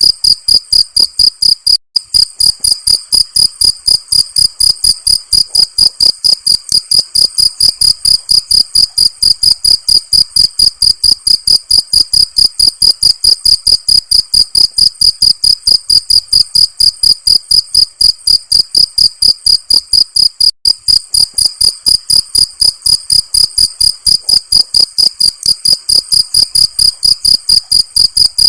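A cricket chirping loudly in a fast, even rhythm of about five high-pitched chirps a second. It breaks off for an instant twice, about two seconds in and near twenty seconds.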